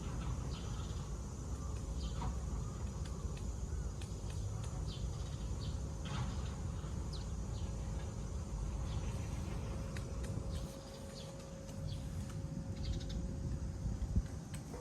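Outdoor ambience: a steady low rumble with scattered short bird chirps and a steady high insect drone.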